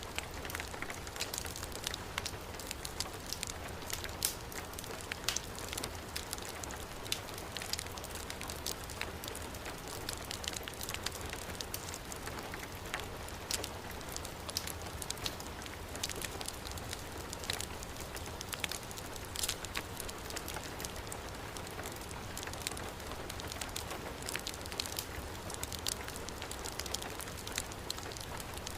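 Heavy rain falling steadily, layered with a wood fire crackling: frequent sharp pops and snaps scattered over the rain's even hiss.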